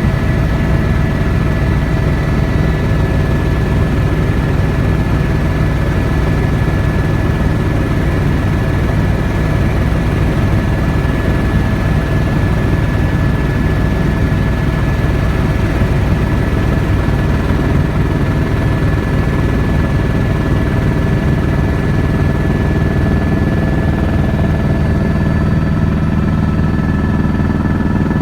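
Helicopter engine and rotor running steadily in flight, heard from inside the cabin: a loud, even drone with a constant high whine over it.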